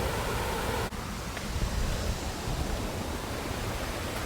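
Steady hiss with an uneven low rumble, like wind on the microphone. There is a brief sudden dropout about a second in.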